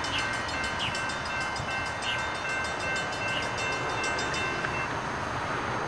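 CSX freight train rolling past, with several steady high-pitched tones over the noise of the cars and a rapid ticking that stops near the end.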